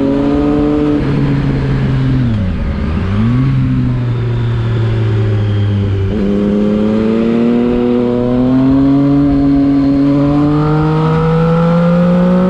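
Triumph Street Triple 675 RX's three-cylinder engine running under way. The revs drop about a second in, dip sharply and pick up again around two to three seconds, then jump at about six seconds and climb steadily as the bike accelerates.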